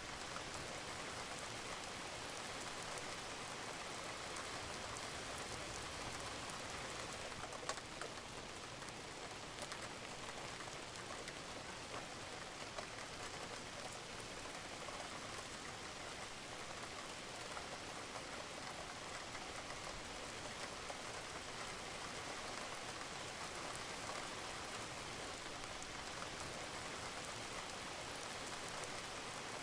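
Steady rain falling on a roof: an even hiss scattered with small drip ticks, with one sharper drip about eight seconds in.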